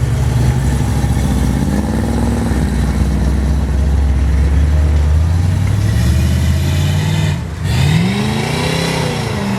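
Car engine running with the throttle blipped twice, the revs rising and falling about two seconds in and again near the end.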